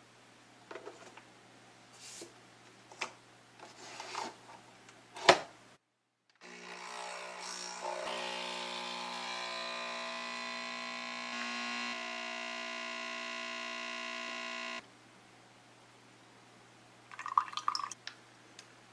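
Several light clicks and knocks, one sharper knock, then a steady motor hum for about eight seconds that cuts off suddenly, followed by a short clatter.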